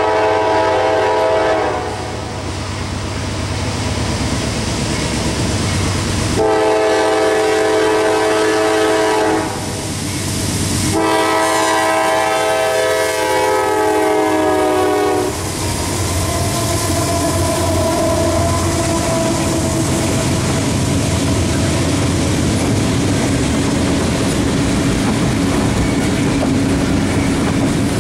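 Air horn of a CSX intermodal freight led by a GE C40-9W diesel, sounding as it approaches: one blast ends about two seconds in, another starts around six seconds in and lasts about three seconds, and a final, longer blast runs from about eleven to fifteen seconds. Then the double-stack container cars roll by with a steady clickety-clack of wheels on rail joints.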